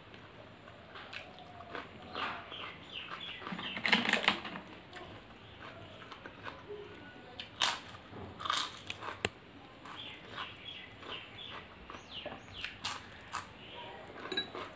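Close-miked chewing and wet mouth sounds of eating rice and chicken curry by hand, with a few louder sharp bites at about 4 s and again at about 8 to 9 s.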